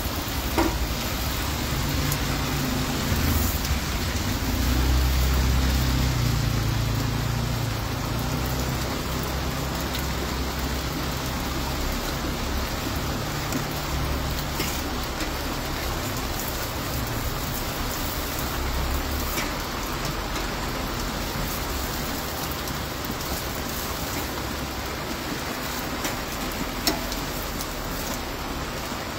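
Heavy rain pouring steadily. A low rumble, typical of a car moving close by, swells in the first half and fades by about halfway, and a few light clicks sound now and then.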